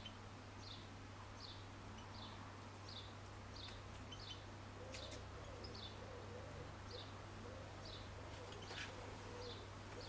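A small bird repeating one short, high, slightly falling call note about once every 0.7 seconds, steadily and faintly. A lower wavering call joins in the background from about halfway, with a couple of faint clicks.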